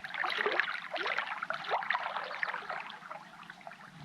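Water gurgling and trickling in quick irregular splashes, busiest for the first two seconds or so and then thinning out.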